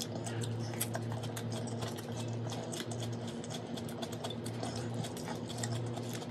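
Close-up chewing and wet mouth clicks from a person eating rice and dried fish by hand, many short sharp ticks coming irregularly, over a steady low electrical hum.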